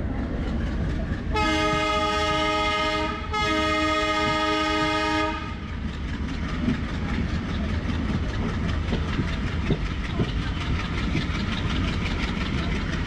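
A locomotive horn sounds two long blasts, each about two seconds, over the rumble of a moving train. After that the wheels of the coaches clatter in a steady rhythm over the rail joints.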